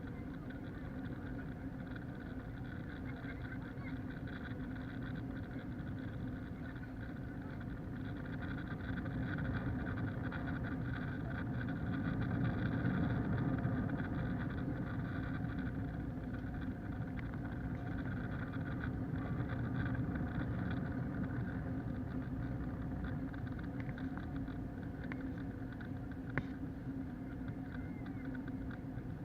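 Cabin noise inside an Airbus A321-231 with IAE V2500 engines: a steady drone of engines and rushing air with several held tones, swelling louder for a few seconds in the middle. A single sharp click near the end.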